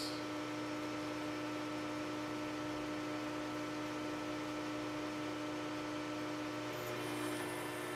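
Metal lathe running steadily with a motor hum while taking a cut of about twenty thousandths. A brief high hiss comes in about seven seconds in.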